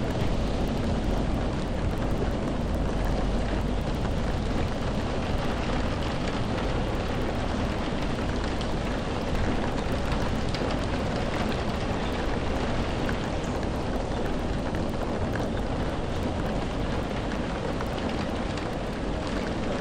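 Steady rain falling: an even hiss with strong low rumble underneath and faint scattered drop ticks.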